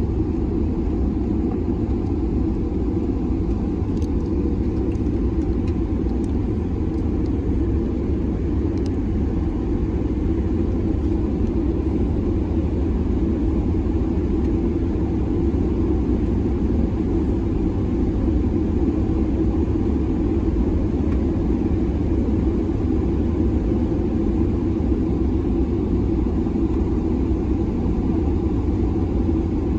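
Steady low rumble of an Airbus A330-300 heard inside the passenger cabin during the landing, with a few faint ticks about four to nine seconds in.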